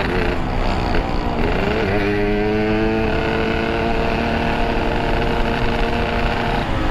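Yamaha RX-King's 135 cc two-stroke single through a Boban C33 exhaust, revving up about a second and a half in and holding a steady high pitch for several seconds, then dropping off near the end.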